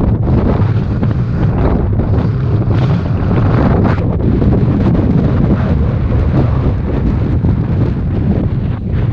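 Strong gale buffeting the microphone: a loud, continuous low rumble that surges with the gusts.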